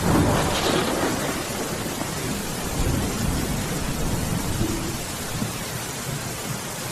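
Steady heavy rain with a peal of thunder that swells in at the start and rolls away over the next few seconds, with a smaller rumble about three seconds in.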